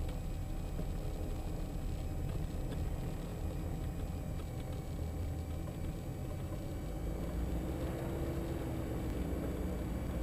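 Diamond DA42 NG's twin diesel engines running steadily on the runway ahead of a short-field takeoff, heard from inside the cockpit as a constant low rumble.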